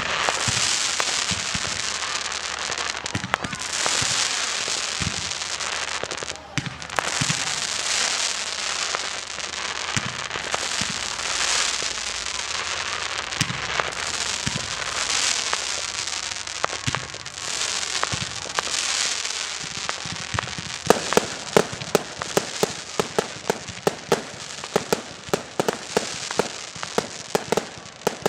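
Fireworks display: a continuous hissing, crackling wash of exploding fireworks. About three-quarters of the way in it turns into a rapid string of sharp cracks and bangs.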